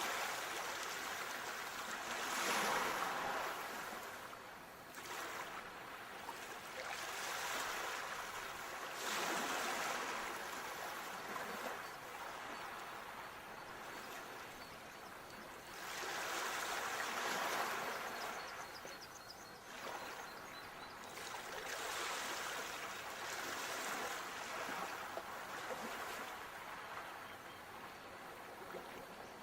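Sea waves washing onto the shore, a rushing surge that swells and falls away every few seconds.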